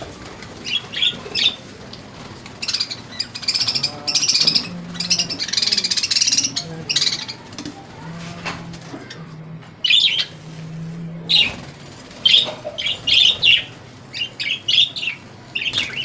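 A flock of budgerigars chirping and chattering in an aviary, in quick clusters of short high chirps that come and go, with bursts of denser chatter.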